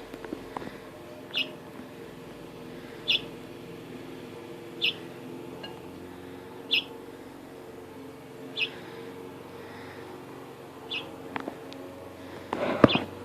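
A fledgling bird giving short, high single chirps, one about every two seconds, six in all. A brief louder burst of noise comes near the end.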